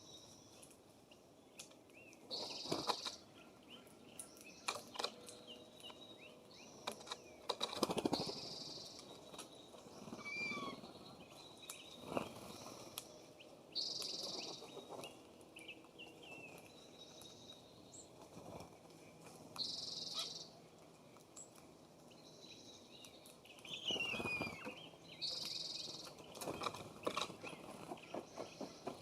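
Wild songbirds calling outdoors at a feeder: a short buzzy high note repeats about every six seconds, with a few whistled sliding notes between. Scattered sharp taps and knocks, about a dozen, of birds landing and pecking on the wooden feeding station.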